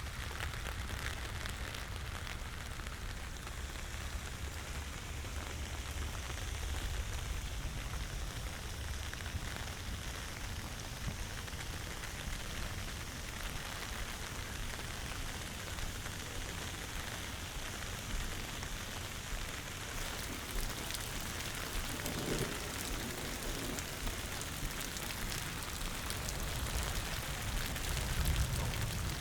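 Steady rain falling and pattering on surfaces, recorded binaurally, over a low steady rumble; the rain hiss turns a little brighter about two-thirds of the way through.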